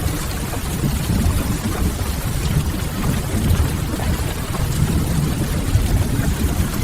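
Steady rain ambience mixed with a wood fire, a continuous even hiss over a heavy low rumble, with faint scattered crackles.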